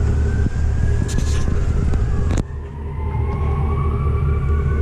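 Steady low rumble with a faint wailing tone that slowly rises and falls, like a distant siren. A single sharp click sounds about halfway through.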